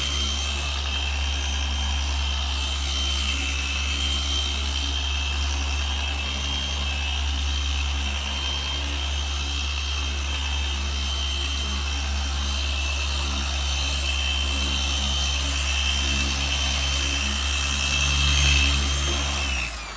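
Electric car polisher running steadily with a constant hum and a high whine while wax is worked over a car hood; it shuts off abruptly near the end.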